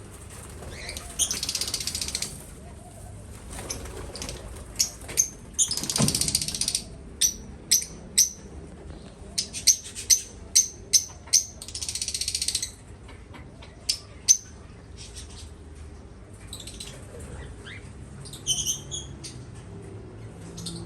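Small aviary birds chirping in short, sharp calls, several in quick succession about halfway through. Three bursts of rustling, each about a second long, also stand out.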